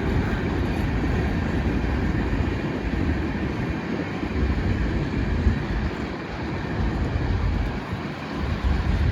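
A freight train's cars rolling past, a steady rough rumble of wheels on rail that swells and eases.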